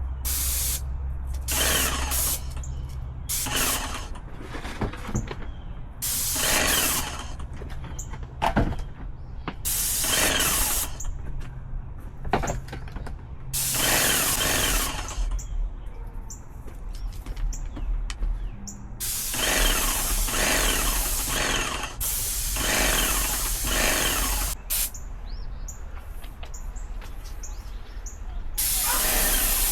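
Paint sprayer spraying in repeated hissing bursts, each lasting from half a second to about two seconds, with a low hum underneath.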